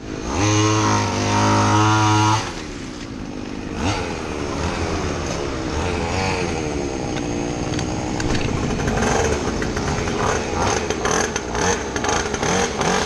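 Homemade mini bike's 49cc two-stroke engine running hard. It holds one steady pitch for about two seconds near the start, then its pitch rises and falls as the throttle is worked.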